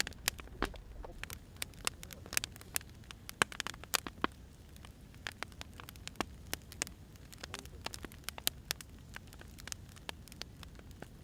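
Burning firewood crackling: irregular sharp pops and snaps, some louder than others, over a faint low rumble of the fire.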